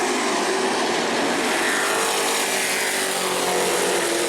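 Pack of short-track pro race trucks running at racing speed, several engines at once, their pitches rising and falling as the trucks pass and drive through the turns.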